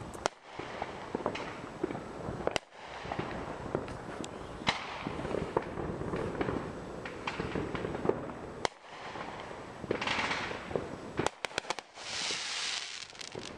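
Aerial fireworks going off: scattered sharp bangs and pops, then a quick run of pops about eleven seconds in. Two short spells of hissing crackle come between them.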